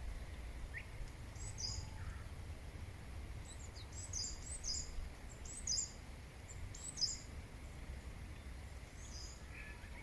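Small birds giving short, high chirps in scattered clusters over a steady low background rumble.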